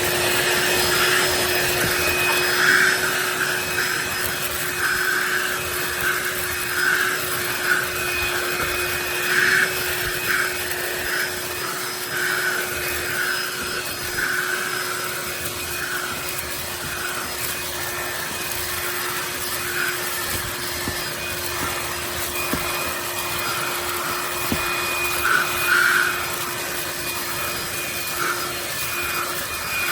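DEWALT DCV501HB 20V cordless handheld vacuum running steadily with a constant motor whine. The rush of air swells irregularly as the round brush nozzle is worked over car carpet.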